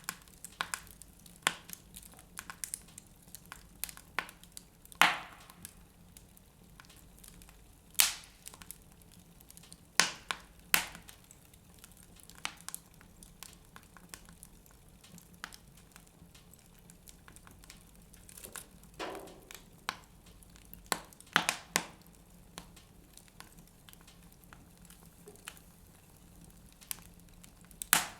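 Wood fire in a fireplace crackling, with irregular sharp pops and several louder cracks every few seconds.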